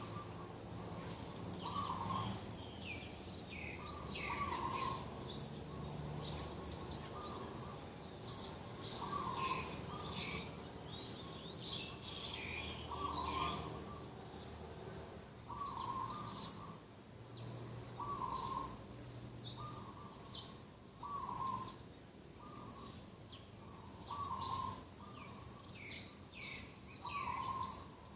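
Dove cooing in short repeated notes, one every second or two, with other small birds chirping and twittering over it.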